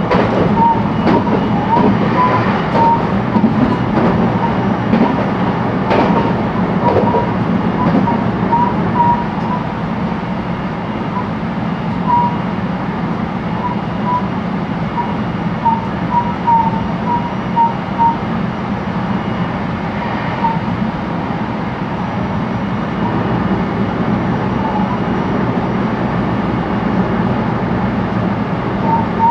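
Inside a JR West 223 series electric train on the move: a steady rumble of wheels on rail, with a few rail-joint clicks in the first several seconds. Short high-pitched squeaks come and go through the first two thirds.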